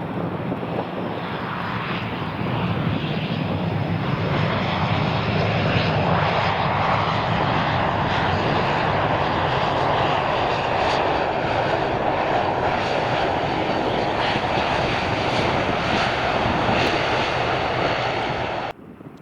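Jet airliner's engines, growing louder over the first few seconds, then holding steady with a faint high whine, cut off abruptly near the end.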